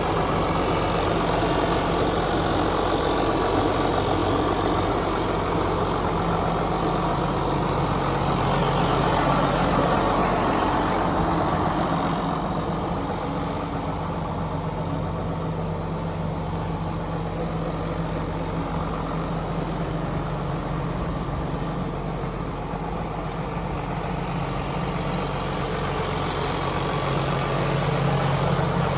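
Case IH MXM 190 tractor's diesel engine running steadily at a constant speed.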